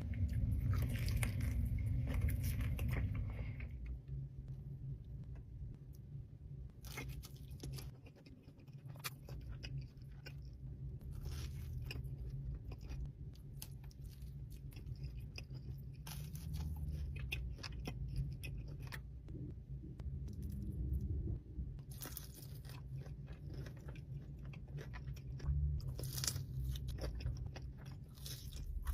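Close-miked eating: a person biting and chewing pizza, with repeated crisp crunches of the crust.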